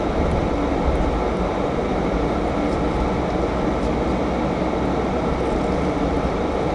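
Steady rumble of a car running, with engine and road noise heard from inside the cabin.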